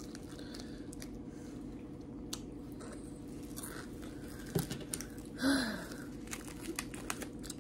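A person chewing a snack, with small crunches and clicks, and a short 'mm' from the voice about five and a half seconds in.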